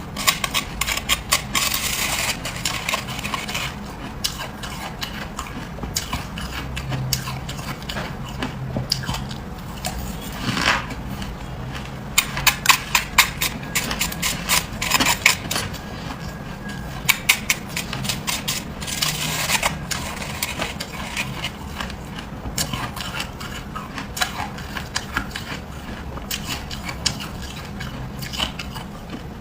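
Freezer frost being bitten and chewed: a dense run of crisp crunches and crackles, with louder clusters of crunching every few seconds.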